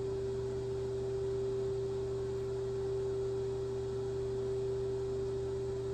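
Steady electrical machine hum with one clear held tone over a lower drone, unchanging in pitch and level, from shop equipment that is switched on while the mill spindle stands still.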